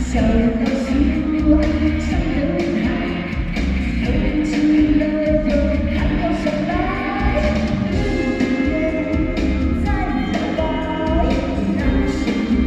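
A vocalist singing a melody over backing music with a steady beat and strong bass.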